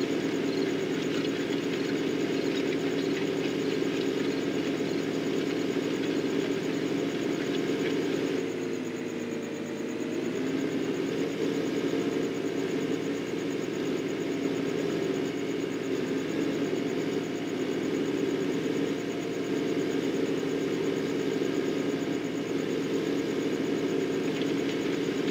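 Tractor engine running steadily while working ground. About nine seconds in, the engine note dips briefly and then recovers.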